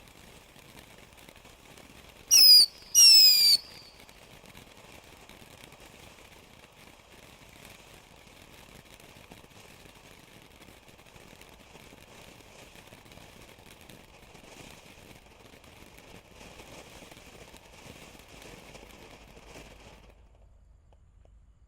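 Garden firework letting out two loud whistles, each falling in pitch, about a second apart, over a faint steady hiss that cuts off near the end.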